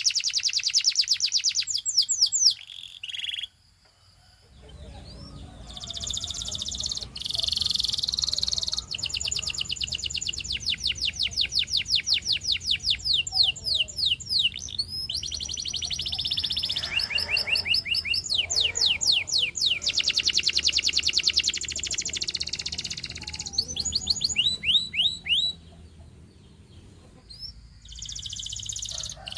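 Canary singing: long rolling trills of rapidly repeated sweeping notes, broken by short pauses about four seconds in and again near the end.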